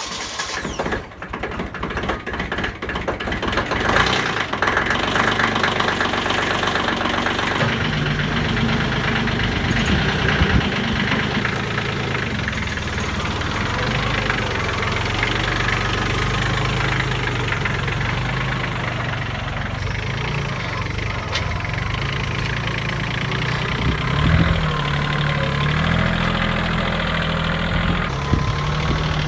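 Kioti tractor's diesel engine running steadily, its pitch shifting up and down a few times as the throttle changes.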